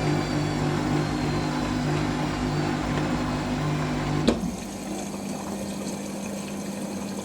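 Hoover SIX Inter@ct Whisper 1600 washing machine's drain pump running with the motor humming, as an intermediate spin ends before the second rinse. About four seconds in there is a sharp click and the motor hum cuts out, leaving the pump's quieter, steadier hum.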